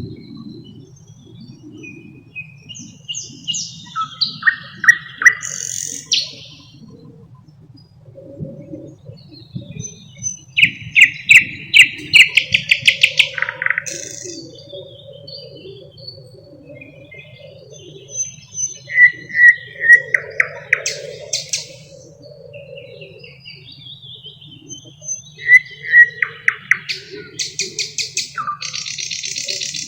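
Thrush nightingale singing: four loud phrases, each built of fast runs of repeated notes, with short quieter pauses between them. A faint steady low hum lies underneath.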